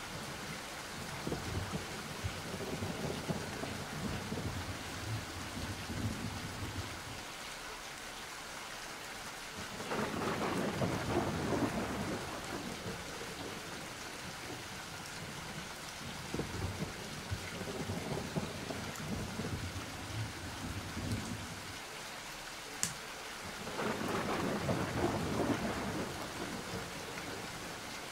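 Thunderstorm: steady rain with low rolling thunder, swelling into two louder rolls about ten seconds in and again near the end. A single sharp crack comes shortly before the second roll.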